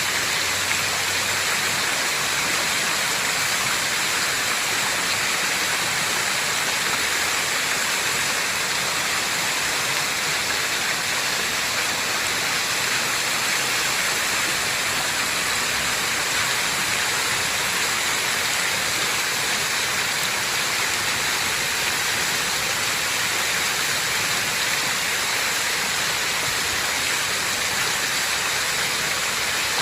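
A fountain's water falling and splashing in a steady, unbroken rush.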